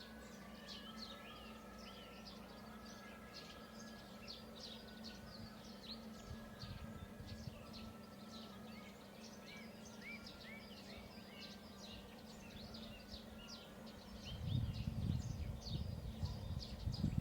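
Small birds chirping and calling over a faint steady hum, many short quick notes overlapping. About three seconds from the end a low rumble comes in and grows louder.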